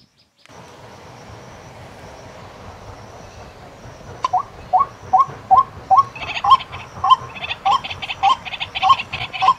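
A bird's call repeated about twice a second, each a short hooked note, starting about four seconds in over a steady outdoor hiss. A higher rapid chattering joins it about halfway through.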